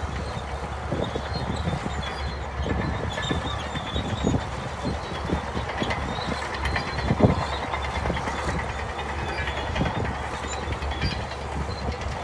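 Crawler bulldozer's diesel engine running steadily under work, with irregular metallic clanks from its steel tracks.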